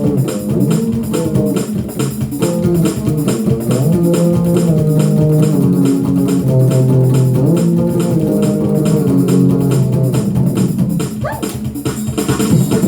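Bass guitar playing a busy gospel shout-music line, the notes moving up and down, over a steady fast drum beat.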